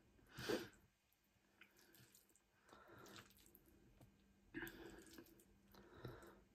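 Quiet eating sounds: chewing noodles in curry sauce, with a few short wet mouth clicks and smacks, the loudest about half a second in.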